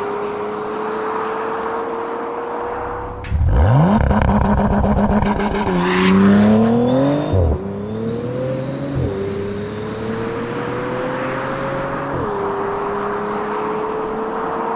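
Bentley Flying Spur Speed's twin-turbo W12 engine pulling through the gears, its pitch climbing slowly and dropping back at each upshift. About three seconds in, the throttle goes wide open: the revs climb steeply and loudly, there is one upshift, and the throttle lifts at about seven and a half seconds, after which it goes back to gentle acceleration with further upshifts.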